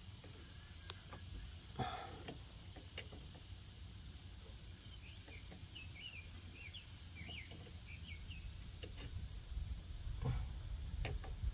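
Quiet outdoor background with a bird chirping a quick series of short notes around the middle, and scattered light clinks and a knock of hand tools on metal, the knock about two seconds in.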